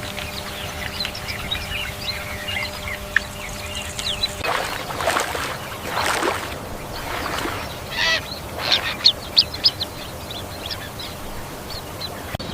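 Waterfowl calling. Small high chirps come first; about four and a half seconds in, louder honking calls take over, with a quick run of short, sharp calls in the second half.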